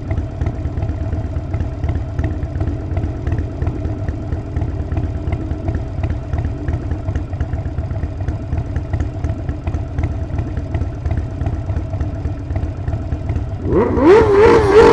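Harley-Davidson Sportster 48's 1200 cc V-twin running with a steady low rumble on the move. Near the end a much louder tone cuts in, rising in pitch and then wavering.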